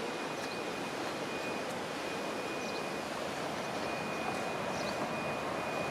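Steady outdoor background rush, even and unbroken, with a faint high steady whine and a few faint short chirps.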